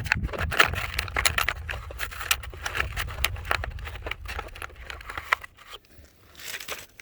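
Hand tools and hardware being handled and rummaged through: a busy run of clicks, clacks and scrapes that thins out about five seconds in.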